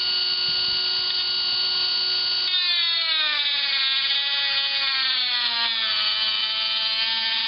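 Dremel rotary tool running at high speed with a steady high whine. About two and a half seconds in its pitch drops and wavers up and down as the spinning bit is pressed into the laptop's plastic case, melting and cutting through it.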